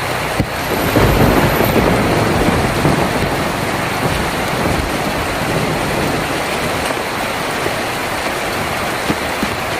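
Heavy rain drumming on a tin roof, a steady dense patter with scattered louder drops. It swells louder and deeper about a second in, then eases back.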